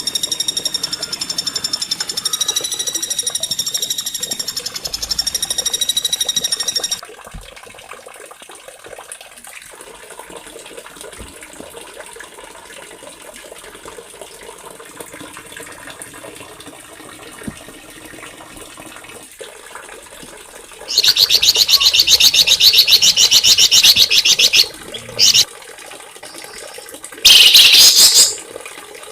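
Small songbirds singing. First comes a steady, high, slightly wavering note for about seven seconds, then a quieter stretch. About three quarters of the way through, a loud, very rapid high trill runs for several seconds, followed by two shorter loud bursts near the end.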